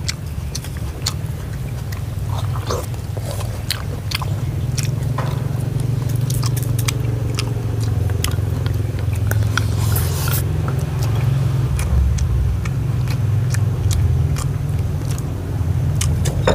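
A person chewing and biting food close to the microphone, with many short wet clicks and smacks, over a steady low hum.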